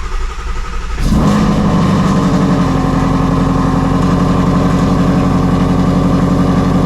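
Cold start of a 2016 Shelby GT350's 5.2-litre flat-plane-crank V8 with long-tube headers: the starter cranks for about a second, then the engine fires loudly and settles into a steady fast cold idle.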